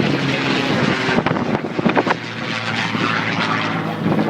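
Aircraft flying at an airshow: a steady engine drone with a broad rushing roar.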